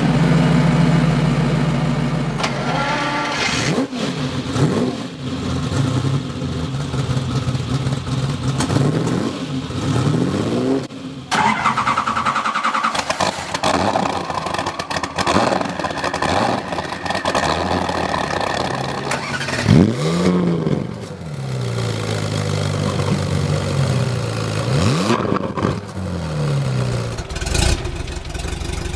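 European high-performance car engines, one after another, starting up and idling with blips of the throttle that rise and fall in pitch, with sudden cuts from one car to the next.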